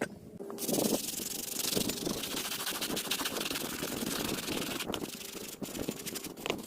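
Steady rough rubbing and scraping from cleaning work on a gravestone, as of a brush scrubbing the stone, easing off near the end with a few scattered clicks.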